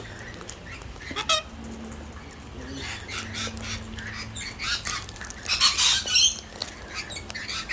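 Wild parrots, cockatoos and lorikeets, squawking in short harsh calls, with one louder, longer screech about two-thirds of the way in.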